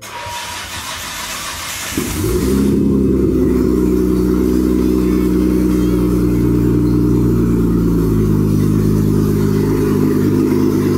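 Nissan RB26DETT twin-turbo straight-six cranking on the starter, catching about two seconds in and settling into a steady idle: the first start of a freshly built engine. The idle drops a little about eight seconds in.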